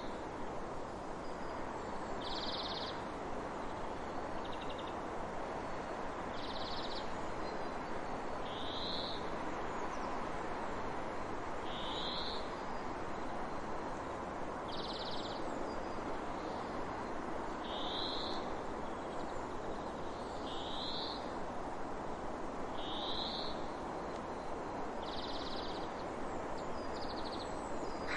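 A bird giving short, high calls, one every two to three seconds, alternating rising notes with flat ones, over a steady rushing noise.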